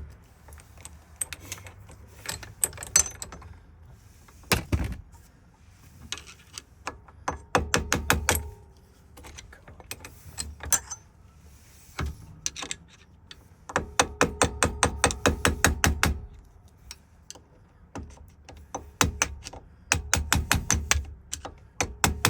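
Light hammer taps on a Ford ignition lock cylinder, to knock its cap off: quick runs of sharp metal strikes, several a second, in bursts of one to two seconds, with brief pauses between them and a faint metallic ring.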